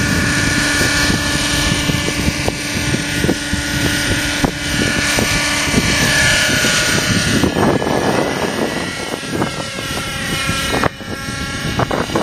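Raptor 50 radio-controlled helicopter's glow engine and rotors running in flight, a steady whine, with strong wind buffeting the microphone that grows rougher in the second half.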